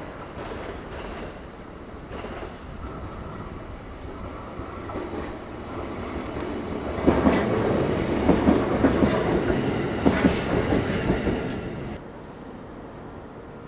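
JR East E131 series electric multiple unit passing close by, its rumble building to a loud stretch of wheels clicking over rail joints. The sound drops off suddenly near the end, leaving a low rumble.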